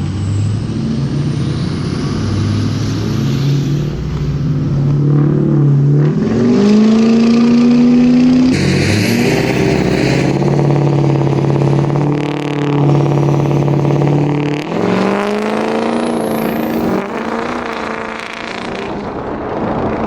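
Diesel pickup trucks accelerating hard in a drag race, engines revving up through the gears: the pitch climbs, drops at a shift about 8.5 seconds in and again about 15 seconds in, then climbs again. A high whistle rises near the end.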